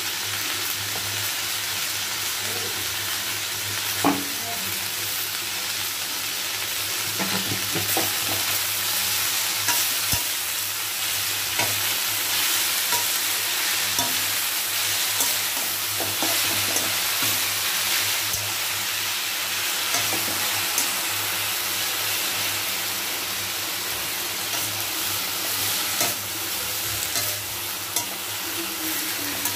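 Spinach greens sizzling steadily as they fry in oil in a kadai. They are stirred now and then, with sharp clicks and scrapes against the pan, the sharpest about four seconds in.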